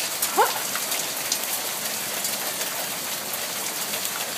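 Hail falling steadily: a dense hiss of hailstones striking the ground and surfaces, with scattered sharper ticks. About half a second in, a short rising squeak-like cry sounds once over it.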